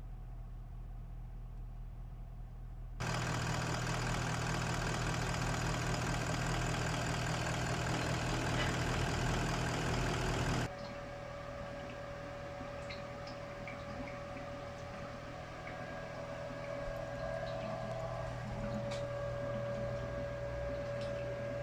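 Engine idling steadily with a low hum. About three seconds in, a loud even hissing noise starts suddenly and cuts off suddenly some eight seconds later; after it, a steady thin whine sounds over the idle.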